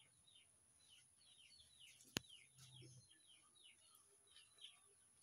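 Near silence with faint bird chirps: many short, quick falling chirps keep repeating, and there is one sharp click about two seconds in.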